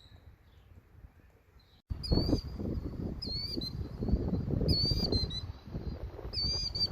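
A songbird singing the same short, high warbled phrase over and over, roughly once every second and a half. Wind rumbles on the microphone, starting abruptly about two seconds in and louder than the bird.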